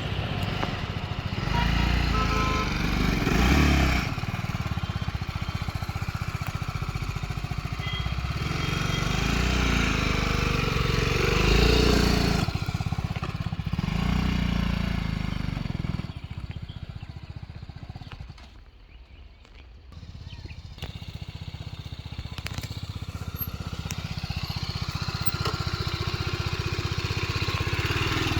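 BMW GS motorcycle engine running on the move, its note rising and falling with the throttle. It falls away sharply about eighteen seconds in and comes back up about two seconds later.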